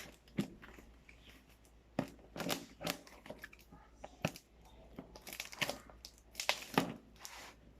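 Parcel packaging being torn open and crinkled by hand in irregular bursts.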